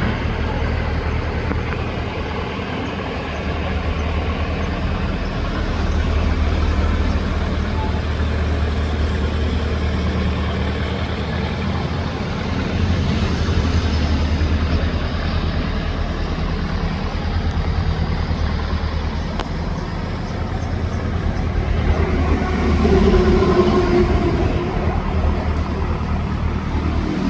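Canal boat's engine running steadily with a low hum, swelling a little now and then.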